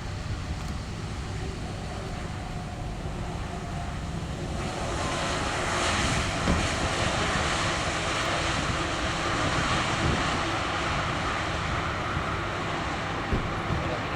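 KLM Boeing 787-9 Dreamliner's jet engines: a steady rushing noise that swells sharply about four and a half seconds in and then stays loud.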